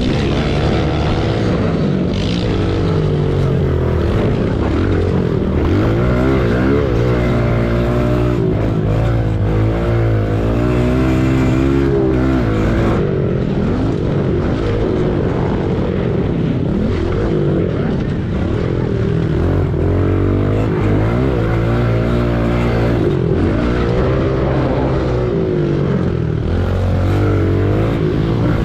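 Pit bike single-cylinder four-stroke engines racing, revving up and dropping back over and over as the riders work through the track.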